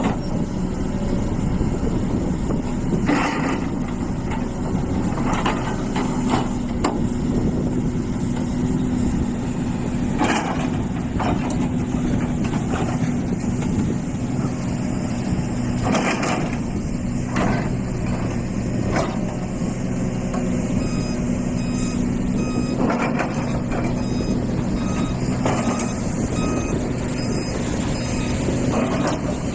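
Hitachi EX450 hydraulic excavator's diesel engine running steadily under load, with scattered clanks and rattles of the digging work. About two-thirds of the way in, a reversing alarm starts beeping at an even pace.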